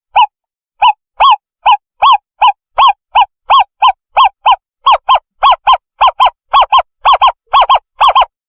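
Recorded owl call played as a bird-catching lure: a long series of short, clear hooting notes that rise and fall in pitch. They come two to three a second and crowd into quick pairs toward the end, with complete silence between notes.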